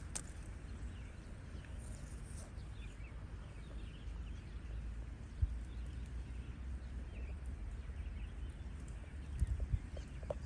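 Outdoor ambience: a steady low rumble with faint scattered bird chirps, and a few sharp knocks, one about halfway through and a cluster near the end.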